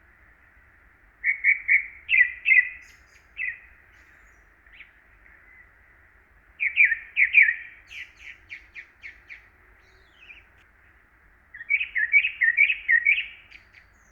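A songbird singing three phrases, each a quick run of repeated down-slurred notes, about a second in, midway and near the end. A steady faint hiss lies underneath.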